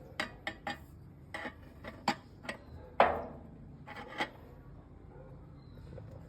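Irregular metallic clinks and taps, with one louder ringing metal strike about three seconds in and two more knocks a second later.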